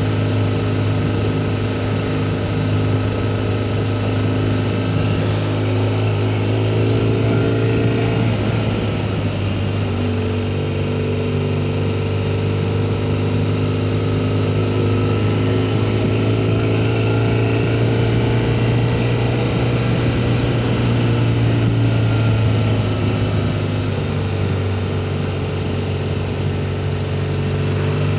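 BMW R1200GS flat-twin boxer engine running steadily, its pitch shifting a little about eight to ten seconds in and again near the end.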